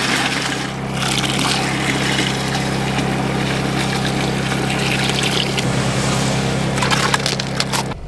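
A motor running steadily with a wet, sloshing churn over it. The hum changes to a pulsing beat about two thirds of the way in, then everything cuts off abruptly near the end.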